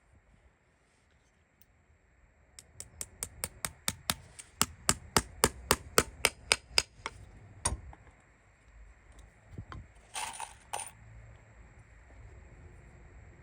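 Farrier's hammer striking metal in a quick run of about eighteen sharp, ringing blows, roughly four a second, then one more blow and a short scrape a few seconds later.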